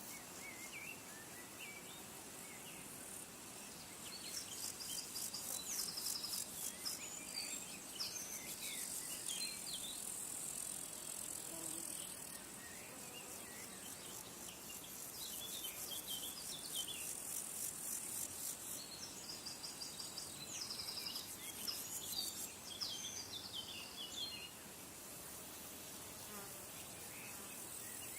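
Insects giving a high, pulsing trill, with birds chirping repeatedly over it. Both are louder through most of the middle of the stretch.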